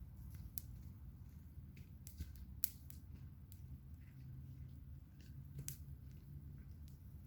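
Wood campfire crackling: irregular sharp pops and snaps, the loudest about two and a half seconds in, over a low steady rumble.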